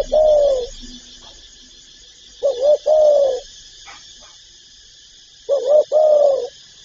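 Spotted dove cooing: a two-part phrase of a short note followed by a longer arched coo, repeated about every three seconds. The first phrase is already under way at the start, and two full phrases follow.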